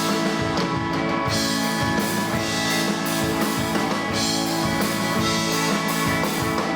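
Live rock band playing an instrumental passage: electric guitars with a steady drum kit beat, no vocals.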